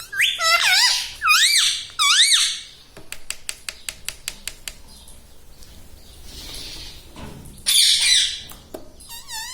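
Rose-ringed (ringneck) parakeet screeching: a run of loud calls that sweep up and down in pitch, then a quick series of clicks, another loud screech about eight seconds in, and short warbling calls near the end.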